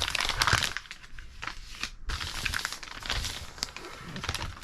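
A paper instruction sheet rustling and crinkling as it is handled and unfolded, with irregular light crackles, louder in the first second.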